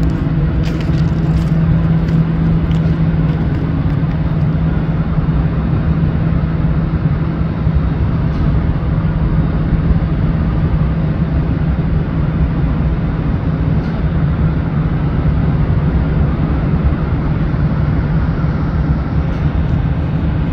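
Freight train rolling away over the track: a steady low rumble with a constant hum.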